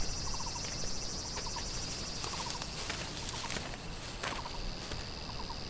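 Forest insects buzzing in a steady high-pitched chorus that eases a little after about four seconds, with short rattling chirps from a small animal repeating about once a second.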